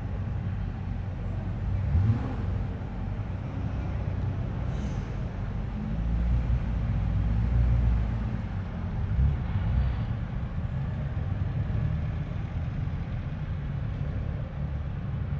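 Car engine running at low speed, a steady low rumble that swells louder for a couple of seconds midway.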